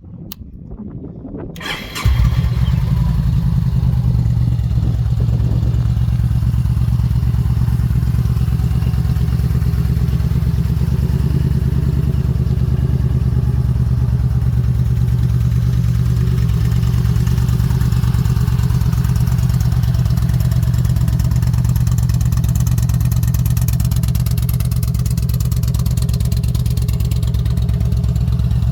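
Yamaha XVS950 Midnight Star's air-cooled V-twin started on the electric starter: a brief crank about two seconds in, then it catches and settles into a steady, deep idle through an aftermarket Vance & Hines exhaust.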